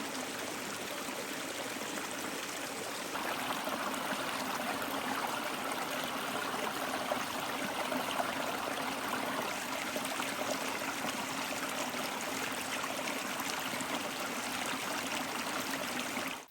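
Steady rushing, trickling water that grows louder about three seconds in and cuts off abruptly at the end.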